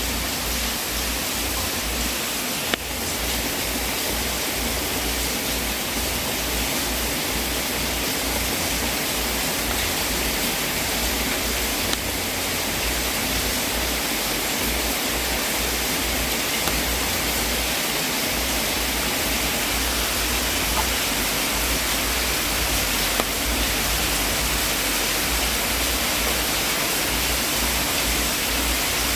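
Wood fire burning in a fireplace: a steady hiss with a few faint pops spread far apart.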